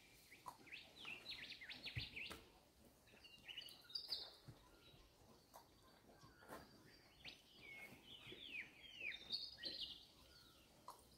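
Faint birdsong: runs of quick, high chirps and downward-sweeping notes, with a few soft clicks mixed in.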